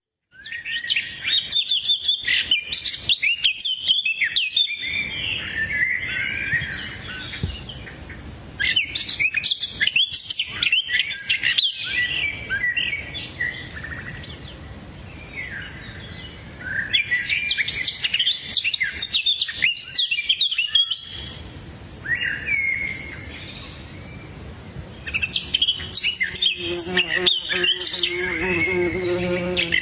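Small birds chirping and twittering in four bursts of rapid, high calls, with quieter stretches between. A low buzzing sound runs under the last burst.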